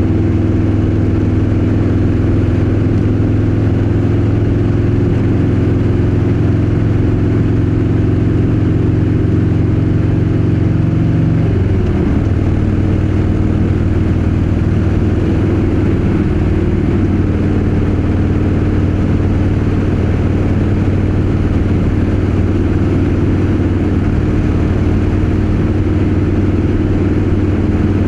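Harley-Davidson Street Bob 114's Milwaukee-Eight 114 V-twin engine and exhaust running steadily on the road. About twelve seconds in the engine note drops sharply, then settles and runs steadily again.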